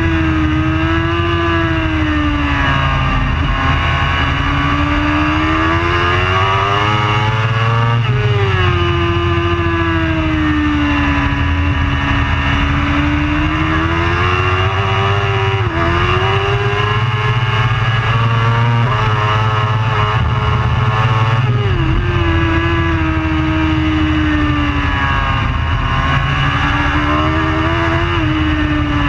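Racing superbike engine running hard and loud, its pitch rising and falling continuously as it accelerates and backs off through corners, with sudden pitch steps at gear changes about a third and three quarters of the way through.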